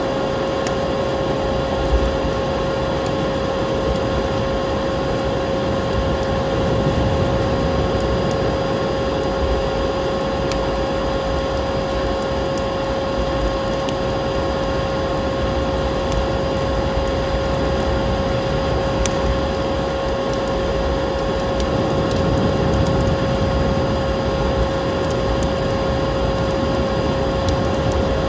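Vacuum cleaner motor running steadily with a constant whine, mixed with the sparse small pops of a crackling wood fire.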